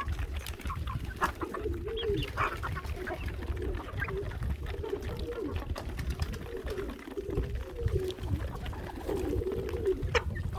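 Pigeons and chickens calling in the coop, a run of low, wavering coos and clucks over a steady low rumble.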